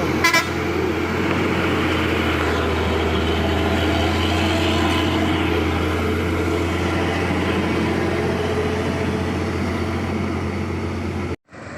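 Hino 500 heavy truck's diesel engine running steadily at close range, with a loud low hum and road noise. A brief sharp sound comes just after the start, and the sound cuts off abruptly near the end.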